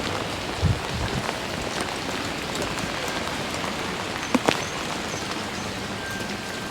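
Heavy rain falling steadily, a dense even patter. A couple of dull thumps come about a second in, and two sharp knocks about two-thirds of the way through.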